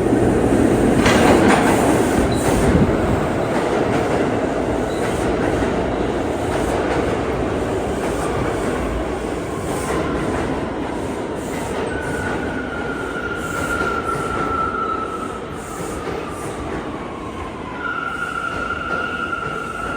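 New York City subway train on the (A) line running in the station: a heavy rumble and wheel clatter that is loudest at first and slowly dies down. About twelve seconds in, a thin high whine slides down in pitch, and near the end a steady high whine starts.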